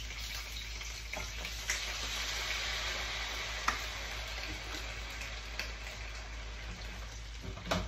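Green jalapeño and serrano chiles frying in hot oil with half a cup of water just added: a steady sizzle, broken by a few sharp pops and clicks, the strongest near the end.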